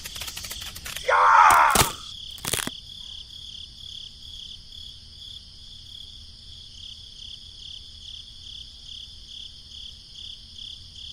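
Steady high-pitched insect chirring, cricket-like, with an even pulse. About a second and a half in, a short loud voice-like cry cuts across it, followed by two sharp clicks.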